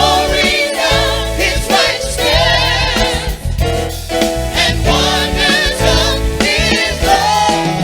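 Gospel song: voices singing with strong vibrato over a band with a steady bass line.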